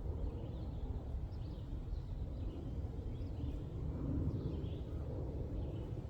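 Outdoor woodland ambience: a steady low rumble with small birds chirping faintly in short, scattered calls.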